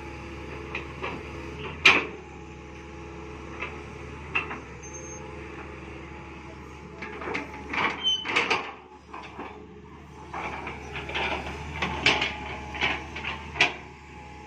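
Excavator's diesel engine running steadily, with scattered clanks and knocks from the digging: a sharp one about two seconds in, then bunches of them in the second half.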